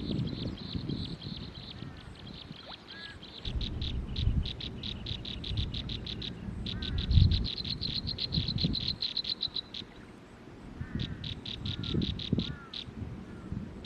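Forest animal calls: rapid trains of high, evenly spaced chirps in three bouts, with a few softer slurred notes between them. Low thumps sound underneath, the loudest about halfway through.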